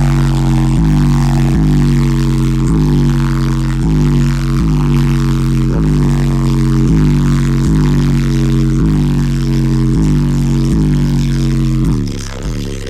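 Car audio subwoofer system playing a deep bass line very loud, a low droning note pattern repeating about every three-quarters of a second, easing off near the end.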